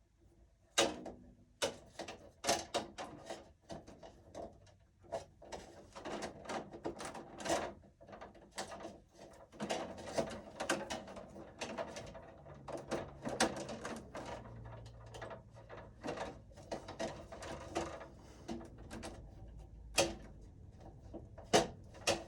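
Irregular clicking and clattering of a screwdriver and small screw being worked by hand at an electrical breaker panel, struggling to get the screw started.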